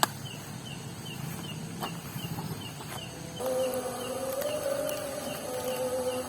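Night insect chirping in an even rhythm, about four or five short falling chirps a second, with a sharp click at the start. From about three seconds in, a long, wavering pitched tone from further off sounds over it.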